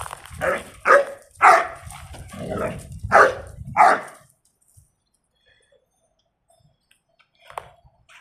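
XL Bully puppy barking, a quick run of about six barks that stops about four seconds in.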